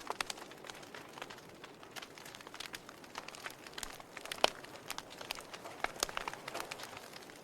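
Wood fire with burning logs crackling: irregular sharp pops and snaps over a soft hiss, the loudest pop about four and a half seconds in.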